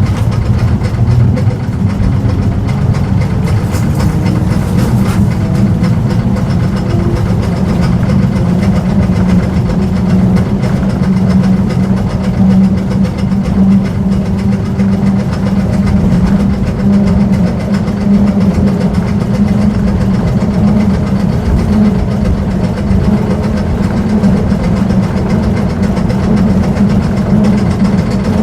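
Historic tram running: a loud, steady low rumble with a constant hum.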